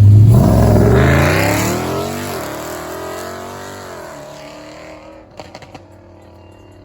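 A car accelerating hard away. The engine revs climb, dip briefly at a gear change about two seconds in, then climb again, and the sound fades steadily as the car pulls away.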